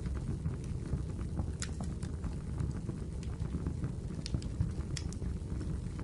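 Firewood burning in a fireplace: a steady low rumble of the flames with scattered sharp crackles and pops, the clearest about one and a half seconds in and near the end.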